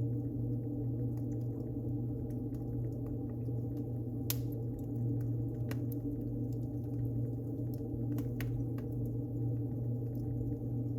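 Wood fire burning in a fireplace: occasional sharp crackles and pops, the loudest about four seconds in, over a steady low hum.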